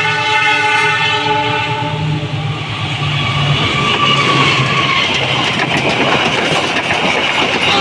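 Train horn sounding a steady multi-tone chord that dies away about three and a half seconds in. After it comes the continuous noise of the train running past, wheels on rails.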